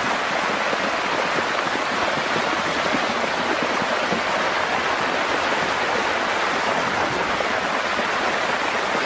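Fast-flowing floodwater rushing steadily, an even wash of water noise with no break.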